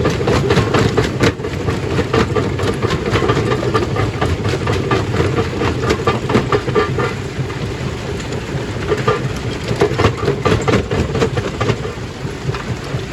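Stone crushing machine running: a steady low rumble with dense, irregular clatter as rock is broken and falls through it.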